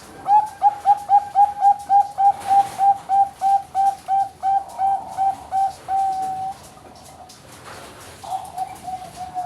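Bangkok-line zebra dove (perkutut) singing its rapid cooing song: a quick string of about twenty short notes, about four a second, ending in a longer held note. After a pause of under two seconds a second, shorter run of notes begins near the end.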